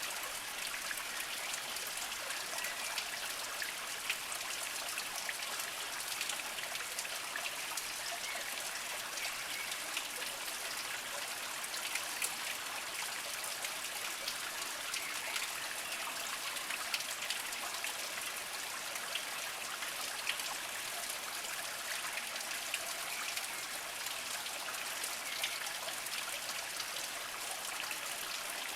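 A small mountain spring trickling over mossy rocks: a steady rush of running water with small droplet plinks scattered through it.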